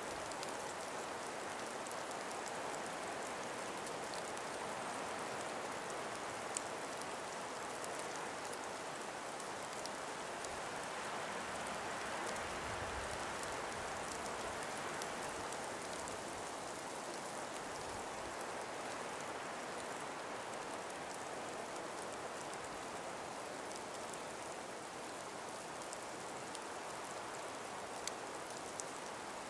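A calm breeze moving through an ice- and snow-laden forest: a steady soft hiss that swells a little around the middle and eases toward the end, with a few faint scattered ticks.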